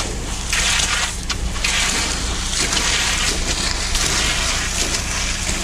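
An engine running steadily, with a low hum, under repeated scraping and swishing of tools working wet concrete.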